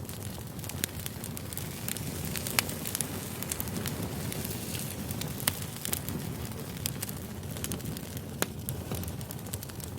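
Wood campfire burning: a steady low rush of flame with irregular sharp pops and crackles, the loudest about two and a half seconds in.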